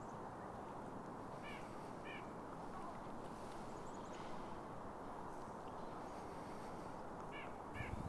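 A bird gives two short, harsh calls about a second and a half in and two more near the end, over a steady rush of wind noise.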